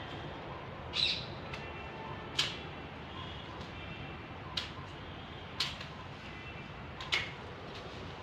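Birds calling: five short, sharp high calls spaced one to two seconds apart, over fainter steady chirping and a low background murmur.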